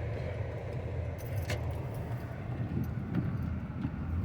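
Car cabin sound while driving slowly: a steady low engine and road rumble, with a few light, irregular clicks and jingles over it.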